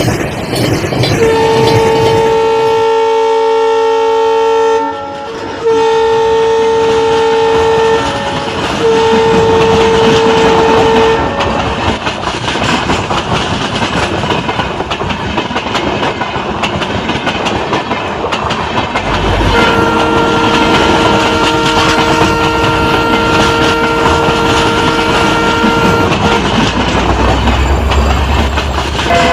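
Train sound with a diesel locomotive's horn: three blasts one after another in the first eleven seconds, then a single long blast later on, over the steady running rumble and clickety-clack of the train.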